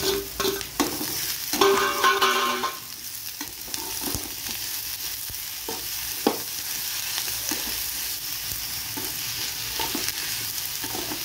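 Chopped capsicum and onions frying in oil in a steel kadai, stirred with a metal slotted spoon. Knocks and a brief ringing metal-on-metal scrape in the first few seconds, then a steady sizzle with a few spoon clicks.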